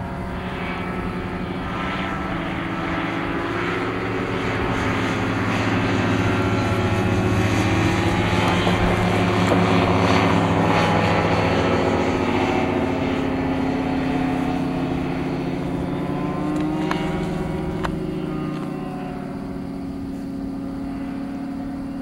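Kitfox light airplanes flying past, engine and propeller droning. The sound swells to its loudest about halfway through, then fades as the engine pitch drops.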